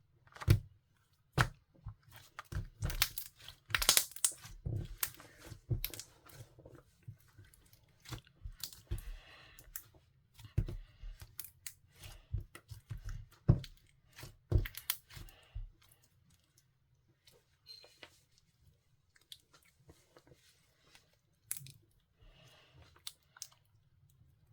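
Clear, colourless slime being squeezed, folded and stretched by hand, giving irregular sharp clicks and pops. They come thick and fast at first and thin out after about two-thirds of the way through.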